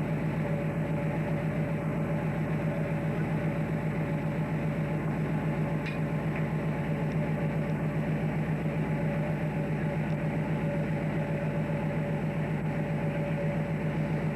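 Engine running at a steady speed: a constant low drone with a fine even pulse and a thin steady hum above it.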